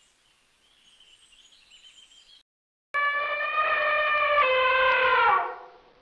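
Faint bird chirping, then about three seconds in a loud animal call held on one pitch for about two and a half seconds, dropping slightly midway and falling away at the end.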